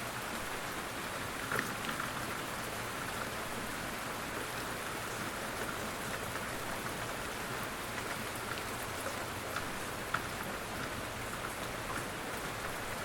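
Steady gentle rain falling on a surface, a continuous hiss with scattered individual drops ticking through it.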